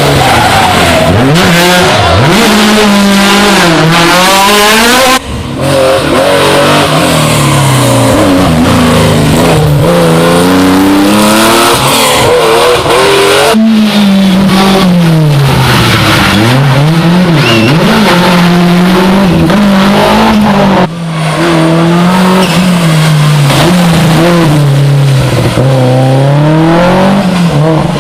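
Historic rally cars driven flat out on a special stage, engines revving hard and dropping again through gear changes and corners. Several passes are joined by abrupt cuts.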